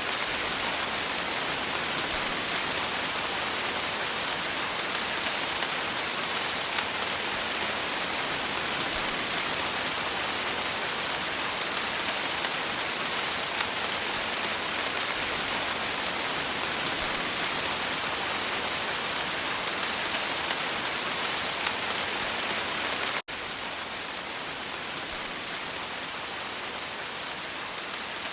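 Steady rain falling, an even hiss of many drops. About 23 seconds in it drops out for a split second, then runs on slightly quieter.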